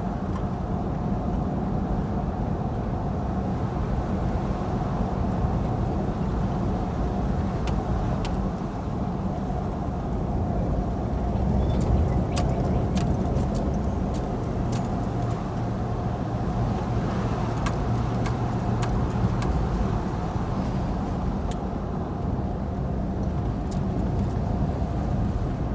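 A vehicle running steadily, a low even engine and road hum, with scattered light clicks and rattles through the middle.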